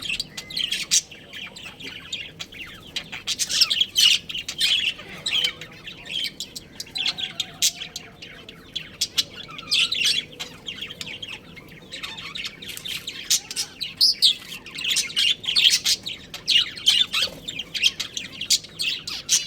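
Budgerigars chattering, a dense run of short high chirps and warbles with louder flurries every few seconds.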